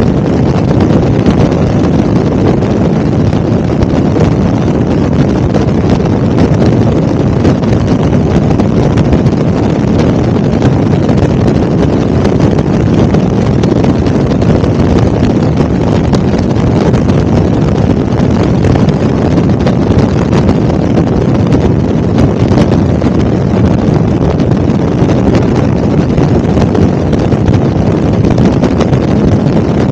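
Helicopter in flight: a loud, steady noise, with wind buffeting the microphone.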